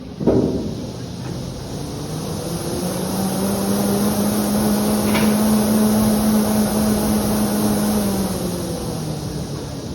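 An exercise bike's fan flywheel whirring as it is pushed hard. The whir builds to a peak over a few seconds of explosive effort, then eases back to a medium pace. A sharp knock comes right at the start.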